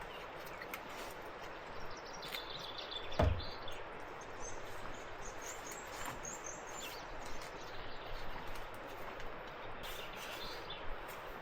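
Birds chirping in short high calls over a steady outdoor hiss, with a single thump about three seconds in.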